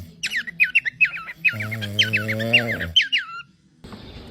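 A bird chirping quickly, a string of short falling chirps about four a second, with a low steady hum under it twice. Both stop suddenly near the end.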